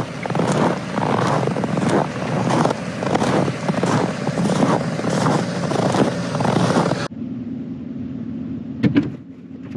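Footsteps crunching through snow at about two steps a second. About seven seconds in, the crunching cuts off and the steady hum of an idling pickup truck's engine takes over, with a sharp click near the end.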